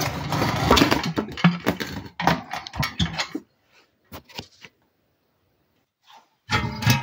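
Metal scraping and clattering as the draught adjuster and parts of a small enamelled wood stove are moved by hand: a dense rattle for the first couple of seconds, then scattered clicks and scrapes, and a short clatter again near the end.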